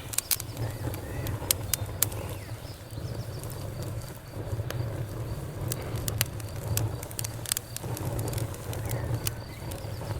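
Campfire crackling, with sharp pops at irregular moments over a steady low rumble.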